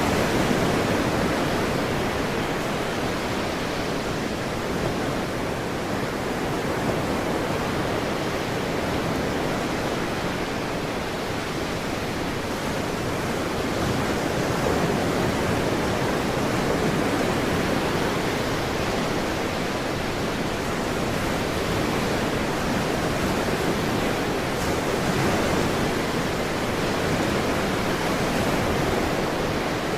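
Ocean surf: a continuous wash of breaking waves that swells and eases gently every several seconds.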